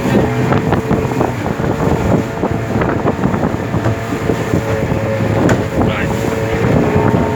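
Small motorboat's engine running steadily, with wind buffeting the microphone and frequent short knocks as the hull meets the water.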